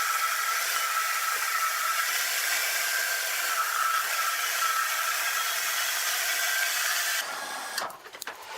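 Steady whirring machine noise with a faint high whine, typical of sawmill machinery running. About seven seconds in it cuts off abruptly and gives way to a different, uneven sound.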